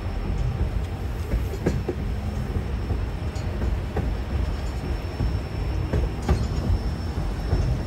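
White Pass & Yukon Route narrow-gauge train rolling along the track: a steady low rumble with scattered clicks and rattles from the wheels and cars.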